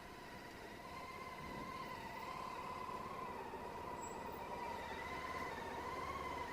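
A faint high-pitched whine that wavers slightly up and down in pitch, over a low rumble, growing a little louder after about a second.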